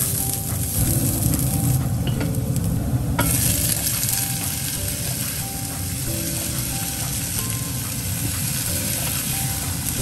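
Onion and garlic sizzling in hot oil in a nonstick pan as a wooden spatula stirs them. About three seconds in the sizzle jumps louder as sliced tomatoes go into the pan, followed by green beans.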